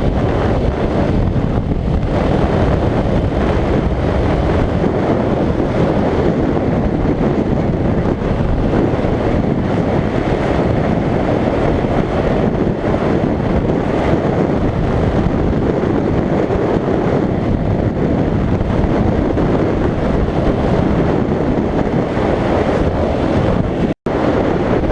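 Heavy, steady wind noise buffeting a camera microphone while riding a motorcycle at speed. It cuts out for an instant near the end.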